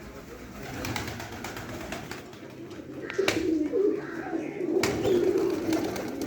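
Domestic pigeons cooing, low rolling coos that grow louder from about three seconds in, with a couple of sharp clicks among them.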